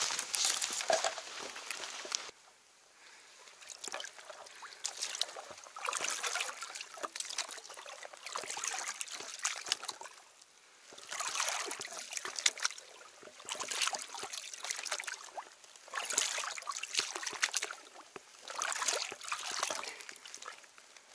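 Water sloshing and trickling in repeated surges, about one every two to two and a half seconds.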